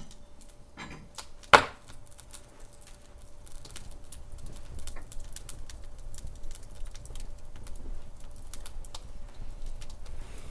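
Wood fire crackling in a fireplace: irregular sharp snaps and ticks over a low steady rumble, with one loud pop about a second and a half in.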